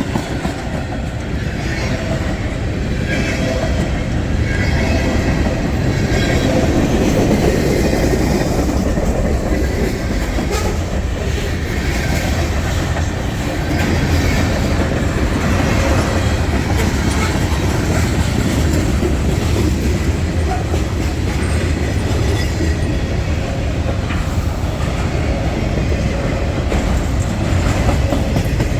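Freight train passing close by: a steady rumble of cars rolling on the rails, with scattered clicks of wheels over rail joints.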